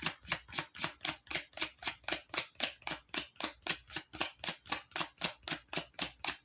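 A deck of tarot cards being shuffled by hand: a steady run of quick, soft card slaps, about five a second.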